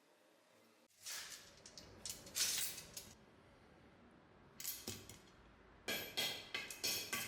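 Metal being worked with hand tools: a few scraping strokes, then from about six seconds a quick run of light metal-on-metal strikes that ring.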